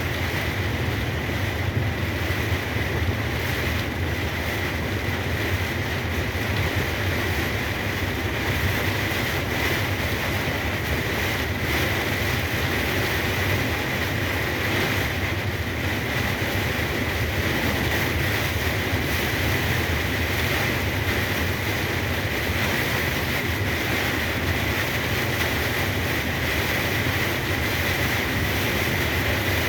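Truck driving at road speed in heavy rain: a steady low engine drone under a constant hiss of rain and tyre spray, with a steady high whine on top.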